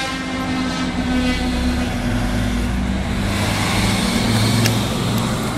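Road vehicles' engines running in a steady noisy haze, after a sustained horn-like tone dies away in the first second or so. A single sharp click comes near the end.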